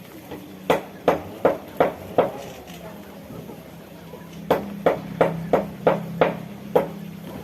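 Sharp knocks in two quick runs, about three a second: five, then after a pause of about two seconds, seven more.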